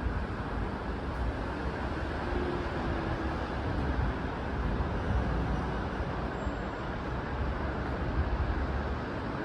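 Steady low rumble of a moving vehicle, an even noise with no distinct events.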